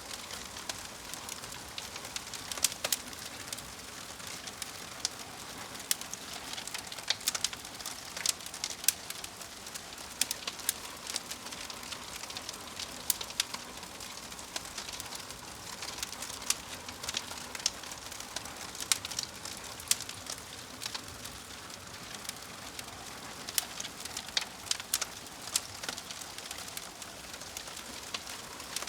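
Wood fire crackling: a steady hiss of burning with frequent sharp, irregular pops and snaps.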